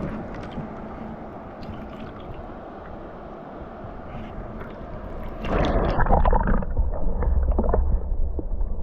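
River water rushing and splashing around a raft, turning louder and choppier about five and a half seconds in, with a heavy low rumble on the camera's microphone.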